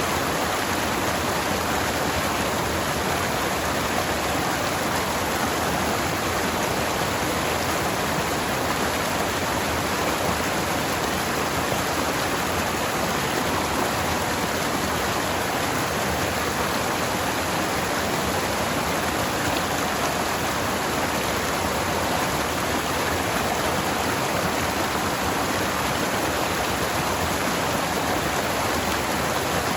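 Forest stream flowing over rocks: a steady, even rush of water that does not change.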